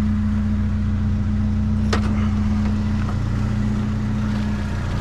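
Truck engine running with a steady low hum, with a single sharp click about two seconds in.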